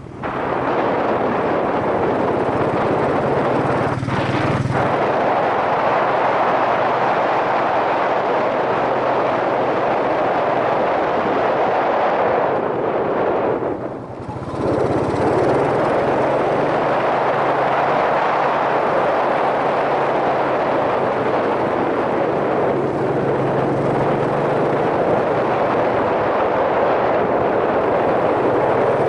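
Yamaha SRX400's single-cylinder engine running steadily under way, with heavy wind rush over a helmet-mounted microphone. The sound drops away briefly about halfway through, then picks up again.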